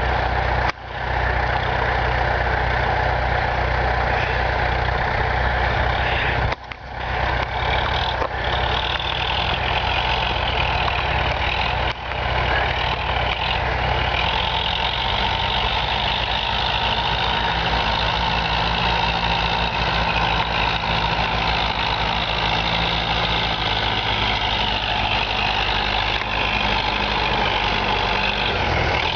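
Universal 650 tractor's diesel engine running steadily at a low, even speed.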